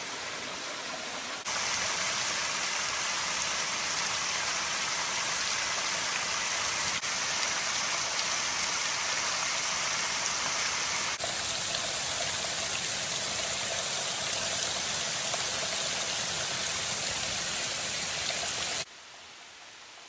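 Small waterfall splashing into a mountain creek: a steady rush of falling water. It jumps louder about a second and a half in and drops off abruptly near the end.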